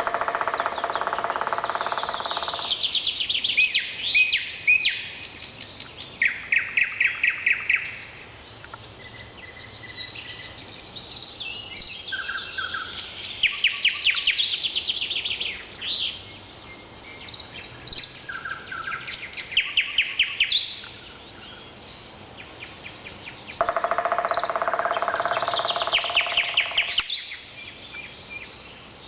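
Several songbirds singing, with rapid trilled phrases repeating throughout and overlapping. Twice, at the start and again near the end, a louder, lower sound lasts about three seconds.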